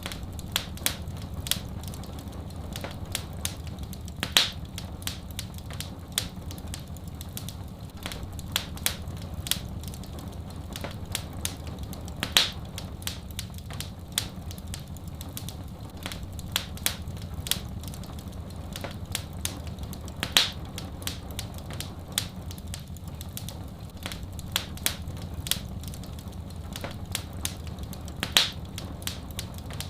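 Wood fire crackling: a constant run of small irregular snaps and pops, with a louder pop about every eight seconds, over a steady low rumble.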